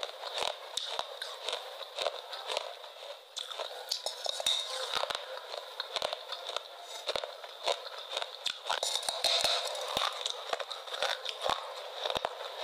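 Close-miked chewing of a crunchy food: irregular crunches and wet mouth clicks, several a second.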